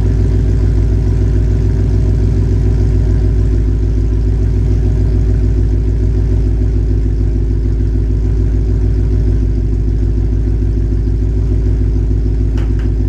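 2011 Mustang GT's 5.0-litre V8 idling steadily through Stainless Works aftermarket headers and exhaust, a deep, even exhaust note.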